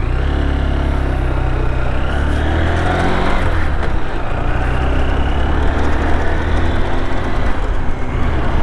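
Honda Hornet motorcycle engine running under way, its pitch rising as it accelerates over the first few seconds and then holding steady, with wind rush over the microphone.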